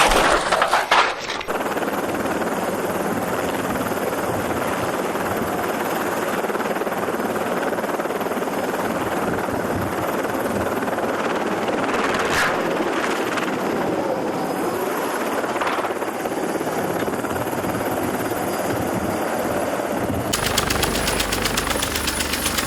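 Helicopter noise: a steady, rushing din that cuts about twenty seconds in to a rapid, even chopping from another clip.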